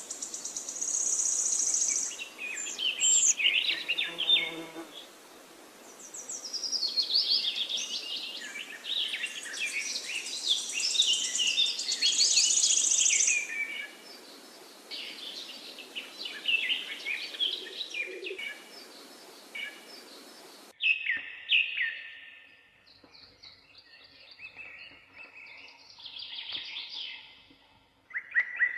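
Several songbirds singing, with rapid chirps and trills overlapping, over a steady background hiss. About 21 s in, the background cuts off abruptly and sparser bird calls continue over a quieter background.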